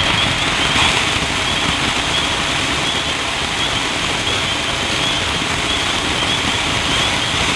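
Drone's propeller motors running steadily, a high whine wavering slightly over a rushing hum.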